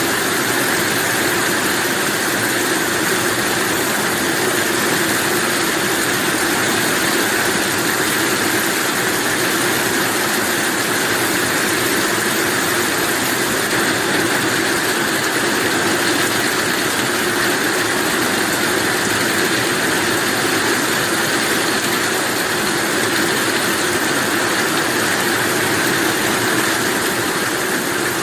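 Steady heavy rain, an even unbroken hiss with no thunder claps.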